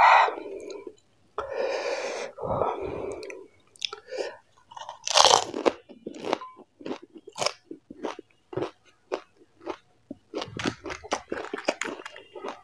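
Close-miked crunching and chewing of whole panipuri: the crisp fried puri shells crack in the mouth in a run of sharp, uneven crunches, the loudest about five seconds in.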